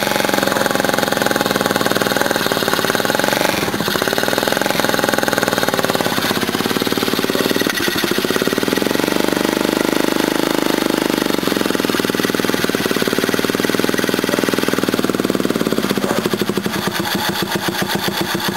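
Mini bike's small straight-piped engine, with no muffler, running cold and untuned. Its speed wanders up and back down, and near the end it slows until each firing stroke is heard separately.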